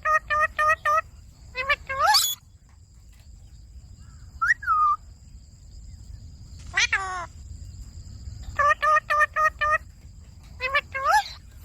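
Pet Indian ringneck parrot calling: a quick run of short repeated notes at the start and again about nine seconds in, with rising whistled glides, a rise-and-fall call and a falling trill between them. A faint steady high whine runs underneath.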